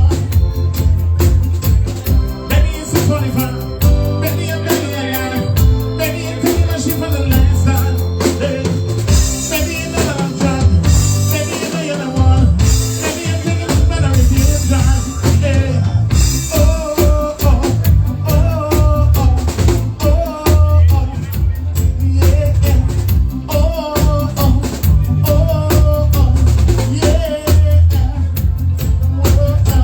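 Band music: a drum kit keeps a steady beat under a strong bass line, with a wavering melody line over it.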